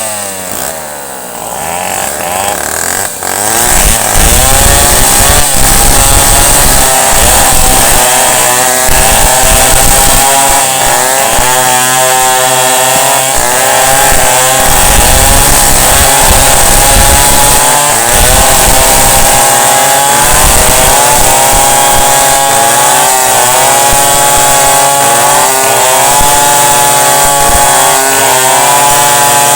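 Chainsaw running as it cuts a tree. Its engine pitch falls and the sound drops at the start, then picks up again about three to four seconds in. After that it keeps running with the pitch rising and falling.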